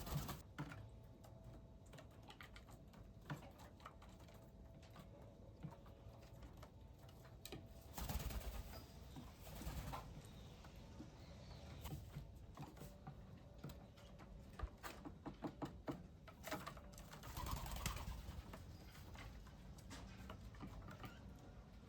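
Birds at a bird bath and feeder: scattered light tapping clicks and soft bird calls, with two brief noisy rushes about 8 and 17 seconds in.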